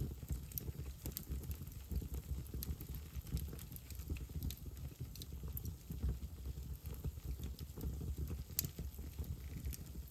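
Wood fire in a fireplace crackling: scattered sharp pops and snaps over a low, steady rumble, with one louder pop late on.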